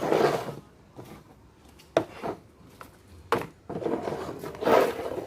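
Cups being spun and shuffled on a table top: rubbing and scraping, with a couple of sharp knocks.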